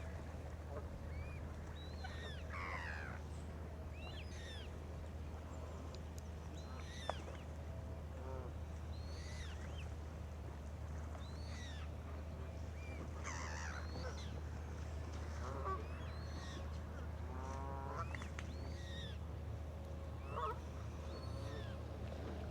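Geese and other waterbirds calling on a lake: scattered short honks and squawks, with one longer honk about three-quarters of the way through. Underneath is a steady low rumble.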